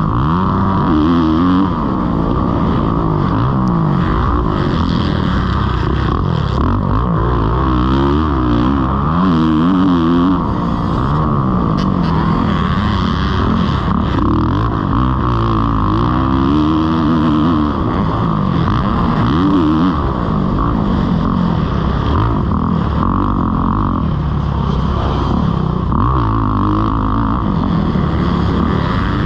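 Kawasaki KX450's single-cylinder four-stroke engine being ridden hard round a motocross track, its revs rising and falling again and again through throttle blips, shifts and landings.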